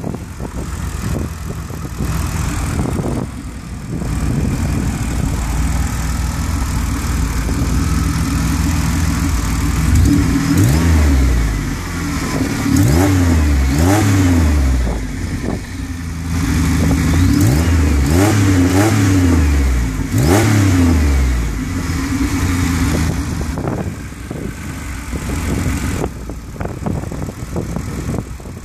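GM 3800 supercharged V6 swapped into a 1985 Pontiac Fiero, heard at the open engine bay. It idles steadily, then is revved up and let fall back several times in quick succession in the middle, before settling back to idle.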